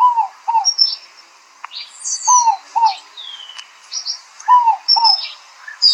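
Several birds calling: short falling notes, mostly in pairs, mixed with thin high whistles and one slow downward-gliding call.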